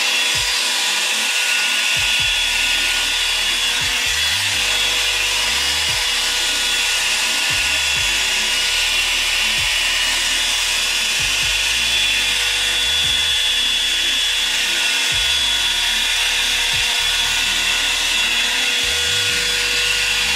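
Revlon hot air brush (blow-dryer brush) running steadily: its fan's rush of air with a constant motor whine.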